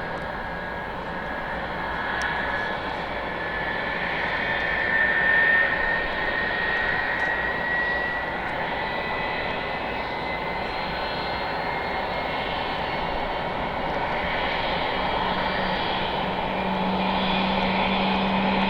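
Boeing 747-400 freighter's four jet engines running, a steady rush with a high whine that slowly rises in pitch; a low hum comes in near the end.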